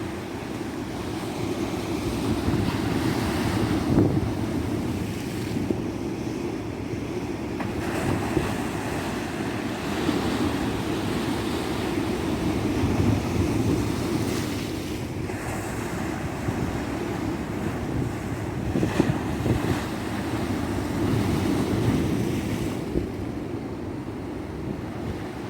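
Ocean surf washing onto a beach: a continuous rush of breaking waves that swells and eases every few seconds, with wind buffeting the microphone.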